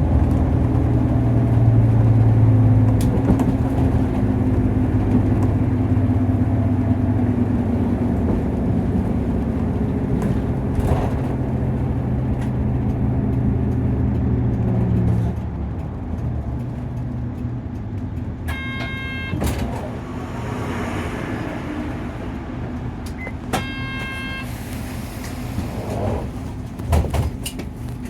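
Interior sound of a Nissan Diesel KC-UA460LSN city bus: its diesel engine running steadily under load, then easing off about halfway through to a quieter, lighter run. Two short high electronic beeps sound later, a few seconds apart.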